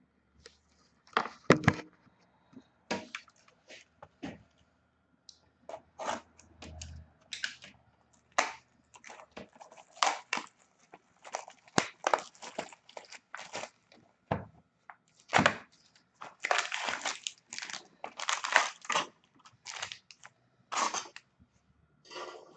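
Packaging of a sealed trading-card box being torn open and crinkled, in irregular crackles and tears that come thicker in the second half.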